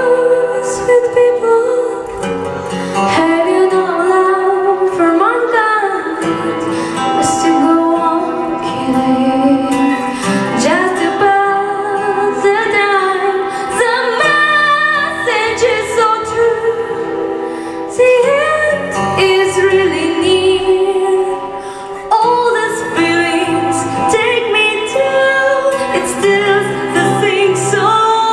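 A song with a woman singing long, held notes over instrumental accompaniment.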